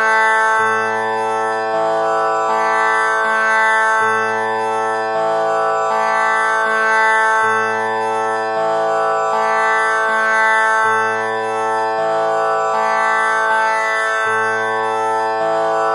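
Tanpura drone tuned to A (6 kattai), its strings plucked one after another in a repeating cycle, about one pluck a second. Each string rings on with a bright buzzing tone so the notes overlap into a continuous drone.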